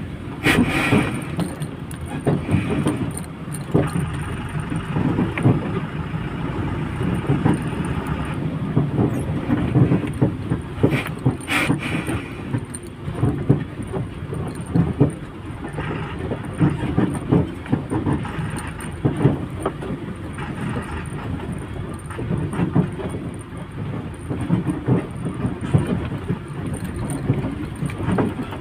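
Lorry on the move: a steady rumble of engine and road noise, with frequent irregular knocks and rattles. There are two sharper clatters, about a second in and around twelve seconds in.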